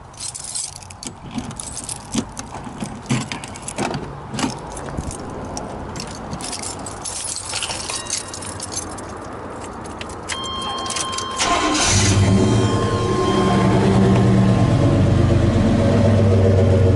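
Keys jangling and clicking, then a steady electronic chime and the starter cranking. About twelve seconds in, the Chevy dually pickup's engine starts and settles into a loud, deep idle through its new cat-back dual exhaust, which still has the catalytic converter in line.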